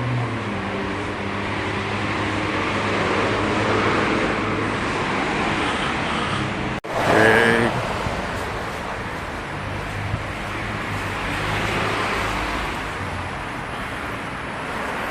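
Steady car engine and road noise with a low hum. About seven seconds in, the sound cuts out abruptly and comes back with a short, louder pitched sound.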